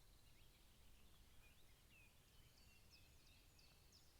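Faint birdsong: many short, quick chirps and slurred notes from small birds.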